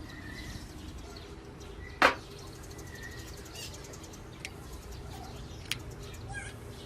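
A single sharp knock about two seconds in, then two lighter ticks, over a low steady hum with faint short bird chirps.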